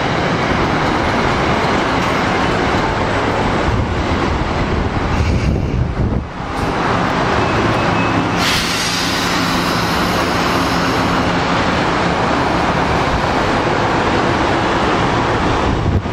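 Metro-North M2 electric multiple-unit train passing close by: a loud, steady rush of steel wheels on rail that dips briefly about six seconds in.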